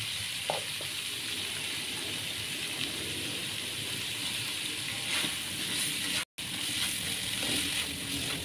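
Vegetables and mushrooms in a little liquid sizzling steadily in a frying pan, with a few faint knocks of the utensil against the pan. The sound drops out for a moment a little past six seconds in.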